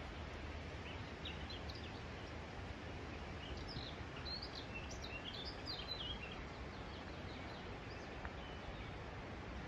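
Small birds chirping and twittering, a flurry of short high chirps over the first two thirds that then thins out, over a steady outdoor hiss.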